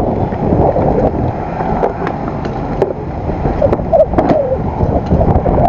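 Loud wind rushing and buffeting over the microphone of a moving motor scooter, with road and engine noise mixed in underneath.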